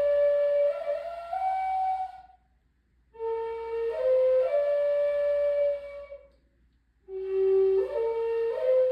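A flute playing a slow melody in short phrases, each climbing by steps through a few held notes, with brief pauses between phrases.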